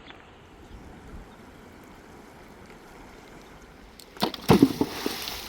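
Faint steady rush of a river, then about four seconds in a sudden burst of loud knocks and rustling that becomes the loudest part.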